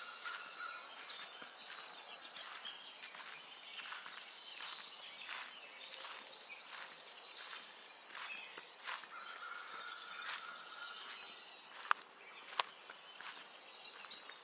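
Small songbirds chirping and twittering in high-pitched bursts, with a held whistled note at times and two sharp clicks near the end.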